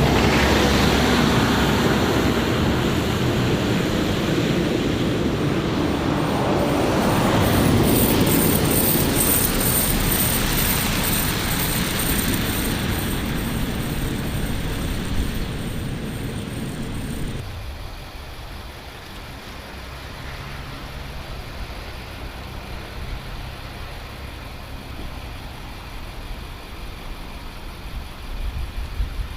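Heavy snow-clearing machinery running: a loud, noisy rumble. About two-thirds of the way through it cuts abruptly to a quieter, steady engine hum.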